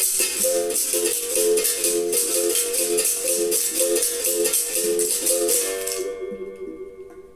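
Berimbau rhythm with congas: twanging pitched notes in a steady repeating pattern over the hiss of a shaker rattle. About six seconds in the rattle stops and the last notes die away.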